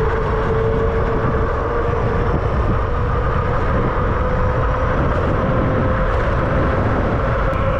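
Kingbull Ranger electric bike riding along: a steady motor whine that rises slightly in pitch as it speeds up, over heavy wind rumble on the microphone.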